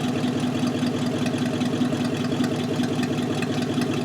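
Dodge Durango engine idling steadily, left running to warm up on its first run after sitting unused for a couple of years.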